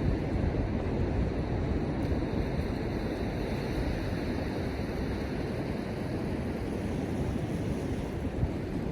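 Ocean surf washing on the beach, mixed with a steady low rumble of wind on the microphone.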